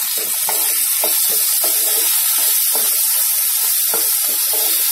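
Freshly added chopped tomatoes sizzling loudly in hot oil in a non-stick kadai, with a steady hiss. A wooden spatula stirs them, scraping against the pan.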